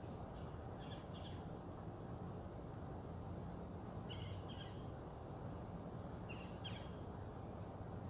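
Birds chirping: three short clusters of high calls about a second, four seconds and six and a half seconds in, over steady low background noise.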